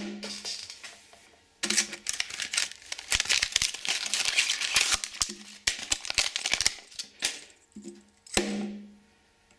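Close handling of a plastic fidget spinner and its packaging: a dense run of clicks, rattles and crinkling from about a second and a half in until about seven seconds in, with a short low hum near the end.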